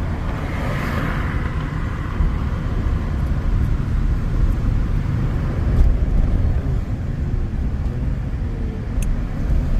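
Steady road and engine rumble inside a moving vehicle's cab, with no sharp events.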